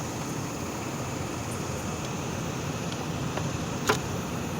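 2007 Pontiac Grand Prix GT engine idling steadily under an open hood, with a single sharp click a little before the end.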